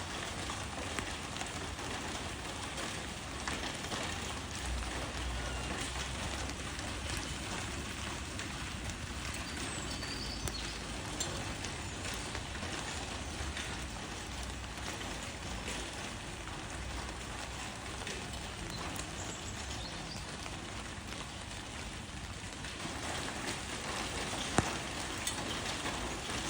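Steady rain falling on leaves, an even patter with scattered individual drops tapping and one sharper drop near the end.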